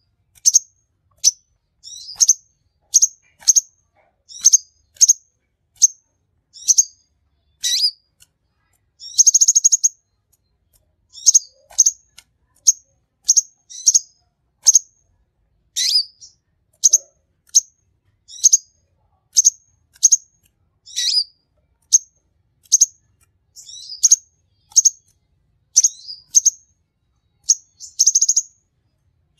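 A captive sunbird (the 'konin' kolibri of Indonesian bird keepers) singing steadily in full voice: a long run of short, high, sharp chirps about one to two a second, some sliding down in pitch, broken twice by a longer buzzy trill.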